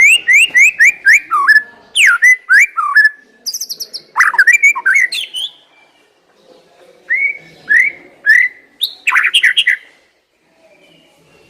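White-rumped shama (murai batu) singing loud phrases of quick gliding whistles: a fast run of about a dozen notes in the first two seconds, then more varied phrases. It pauses about six seconds in, starts again, and stops about ten seconds in.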